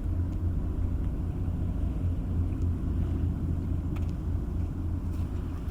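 Steady low rumble of a ferry's engines, with a few faint ticks over it.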